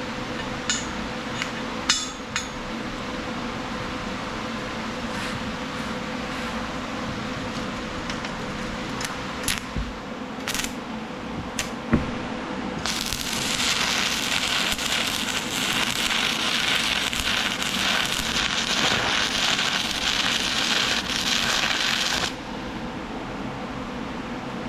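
A few light clicks and metal knocks, then about halfway through an electric welding arc crackles steadily for about nine seconds and cuts off suddenly. A faint steady hum runs underneath throughout.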